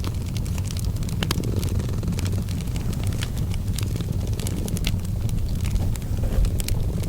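A cat purring steadily, a low continuous rumble, mixed with a wood fire crackling in a fireplace: scattered sharp pops and snaps, several a second.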